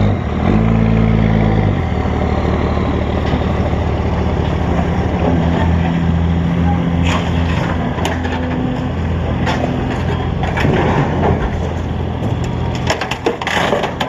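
Heavy diesel engine of an excavator running steadily, straining briefly near the start, with scattered cracks and metallic clanks in the second half as the machine crushes and pulls at the scrap chiller.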